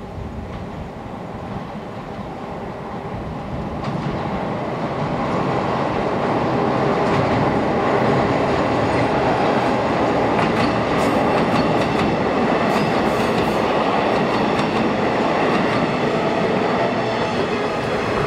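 Taiwan Railways electric multiple-unit train approaching and running past close by: the rumble of wheels on rails swells over the first several seconds, then holds steady and loud as the cars go by.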